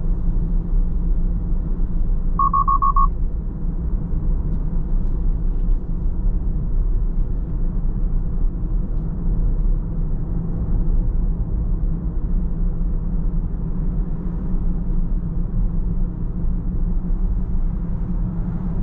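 Steady low rumble of a car driving, its road and engine noise. About two and a half seconds in, a quick run of short, high electronic beeps.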